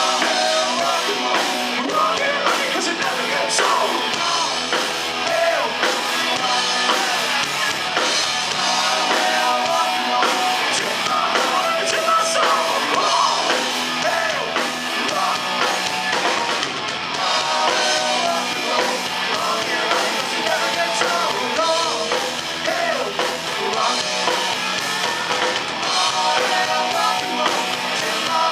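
Live rock band playing loudly: distorted electric guitars and a drum kit, with singing.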